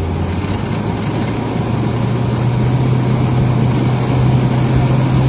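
Car engine and tyres running on a wet road, heard from inside the cabin: a steady low engine hum that steps up slightly in pitch about half a second in and holds, over a constant hiss of road noise.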